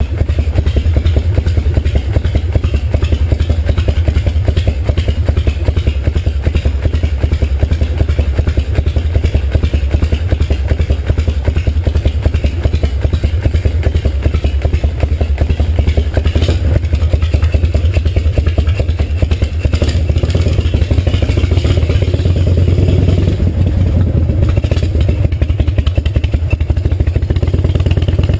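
Harley-Davidson V-twin motorcycle engine idling, a steady rapid beat of firing pulses; near the end the engine speed begins to rise.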